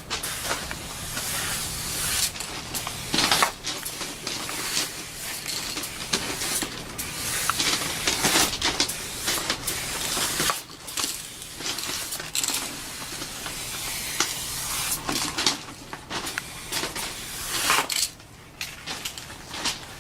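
Aerosol spray-paint cans hissing in repeated bursts, some short and some several seconds long, with brief pauses between them.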